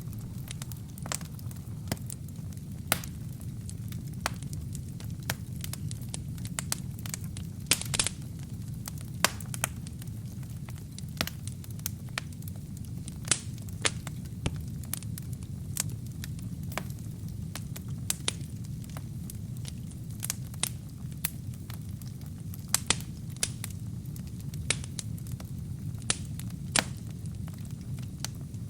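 Wood fire crackling in a fireplace: a steady low rumble of burning with sharp, irregular pops and snaps scattered throughout.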